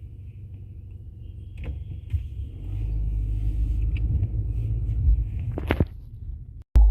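Car cabin rumble of the engine and road noise, growing louder a couple of seconds in as the car pulls forward, with a few short knocks.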